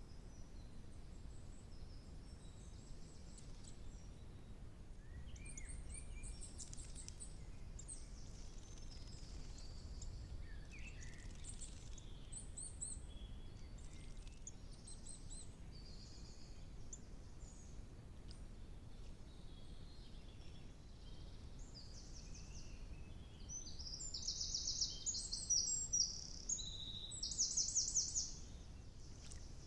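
Wild birds singing and calling, short high chirps and phrases scattered throughout over a low steady background noise. A louder, rapid burst of song comes in the last few seconds.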